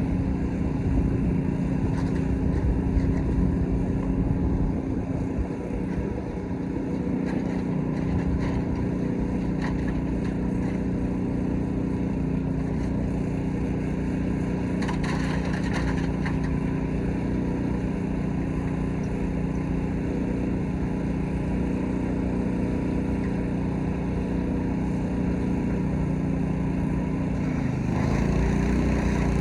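Petrol-engine pressure washer running steadily, with a hissing haze under the engine note; near the end the engine pitch dips and then picks back up.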